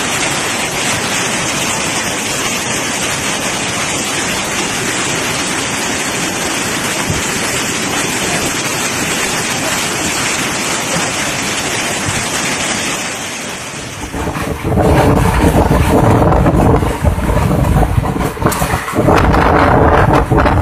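A steady, loud rush of waves or floodwater for about thirteen seconds. Then strong gusty wind buffets the microphone, rising and falling in loud gusts.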